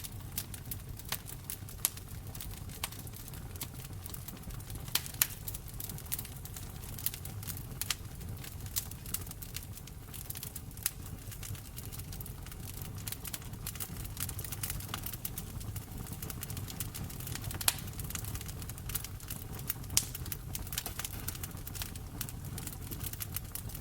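Wood fire in a fireplace crackling: irregular sharp pops and snaps over a low, steady rumble of the burning fire, with a few louder pops standing out.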